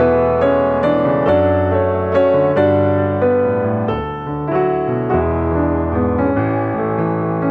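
Background piano music: a gentle melody of sustained chords and notes struck about twice a second.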